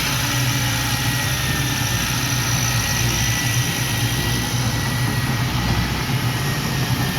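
Heavy diesel engine of earthmoving machinery running steadily: a deep even rumble with a faint high whine held steady above it.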